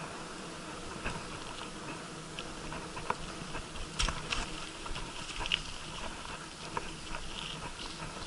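Bicycle ridden over rough, broken asphalt: steady rolling and wind noise with scattered light clicks and rattles, a cluster of sharper knocks about four seconds in.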